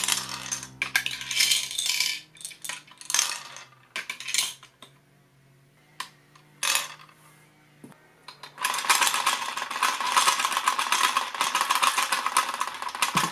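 Small hard plastic Plarail toy parts clinking and clattering together, then a short lull with a couple of clicks. From about two-thirds in comes a steady, dense mechanical rattle from the toy set's moving parts.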